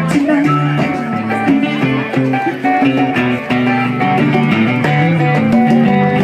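Live band playing an instrumental passage between sung lines, led by guitar with plucked strings and a steady rhythm.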